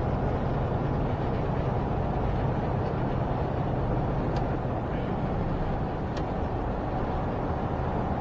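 Semi-truck engine and road noise heard from inside the cab while driving at speed: a steady low rumble and hum.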